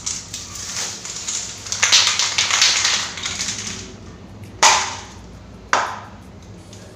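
Aerosol spray paint can hissing in several uneven bursts, then two sharp knocks about a second apart.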